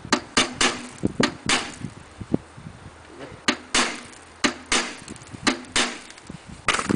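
A run of sharp, irregularly spaced taps and knocks, about twenty in all in short clusters, from hand-tool work on the car's radiator fixings.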